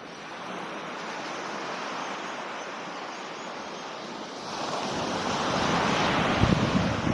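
Ocean surf on a beach: a steady wash of small waves that swells as a wave breaks about two-thirds of the way through. Wind buffets the microphone near the end.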